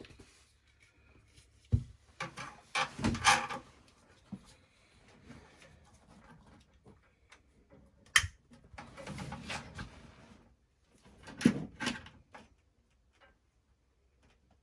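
Handling sounds at a gas water heater's pilot access: a few sharp knocks and clicks with short stretches of rubbing and rustling in between.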